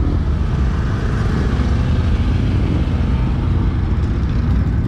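Steady low rumble of a car engine running, with a fast, even flutter and no change in level.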